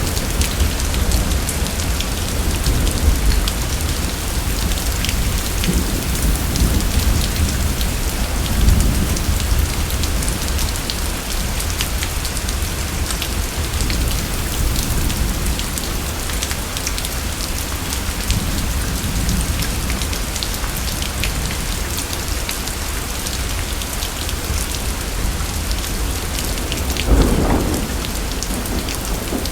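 Steady heavy rain with thunder rumbling low underneath, swelling at times. A brief louder burst of thunder comes near the end.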